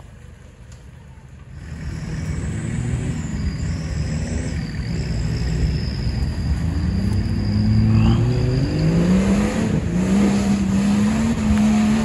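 Off-road Nissan Patrol's engine working under load as it climbs a rutted mud track. It sets in loudly about a second and a half in, revs up in rising steps about two-thirds of the way through, and is held at high revs near the end. A thin high whine sits over it in the middle.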